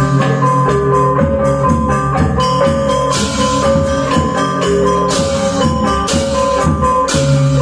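Balinese gong kebyar gamelan playing a tabuh pisan instrumental piece: bronze metallophones ringing with sustained tones, over drums and low gongs, with bright accents about every two seconds.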